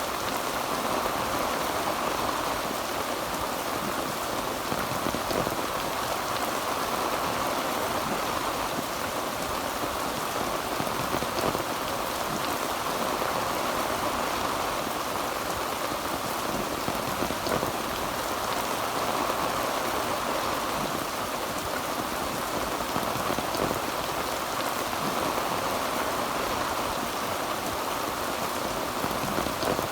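Heavy rain drumming steadily on a tin roof, a dense even patter.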